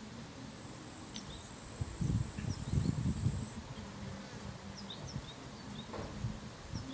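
Insect chirring in a summer garden: a cricket's high, steady trill through the first half, stopping about three and a half seconds in. Wind gusts on the microphone, loudest about two to three and a half seconds in, with scattered faint short chirps.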